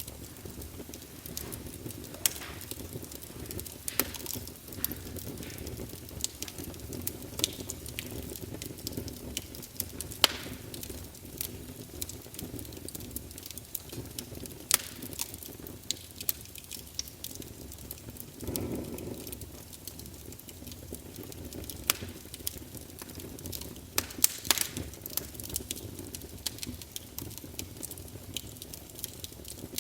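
Wood logs burning in a fireplace: a steady low rush of flame with frequent sharp crackles and pops, a few of them louder, and a brief swell of the flame rush about two-thirds of the way through.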